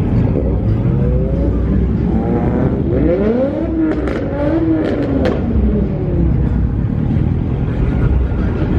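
A car engine revving at a standstill, its pitch climbing and falling back a couple of times about halfway through, over a steady low engine rumble, with a few sharp cracks at the peaks.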